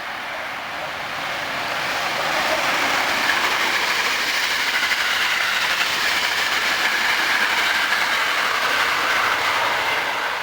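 Eight-car Hankyu electric train passing at speed over a level crossing. The noise of wheels on rail builds about two seconds in, holds, and eases off near the end.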